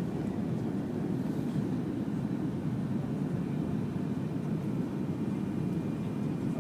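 Steady low cabin rumble inside a Fokker 100 airliner in flight, from airflow and its rear-mounted Rolls-Royce Tay turbofan engines.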